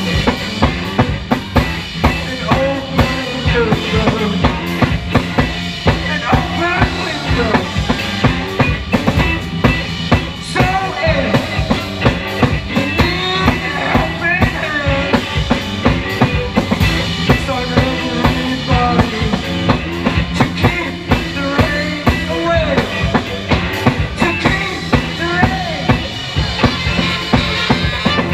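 Live rock band playing an instrumental passage with no singing. A drum kit drives a steady beat of kick and snare hits, about two a second, under bass and sliding guitar lines.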